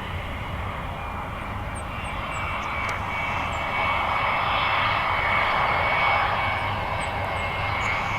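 Jet airliner engines running with a steady high whine over a broad roar. The noise swells about halfway through and then eases off as the aircraft passes.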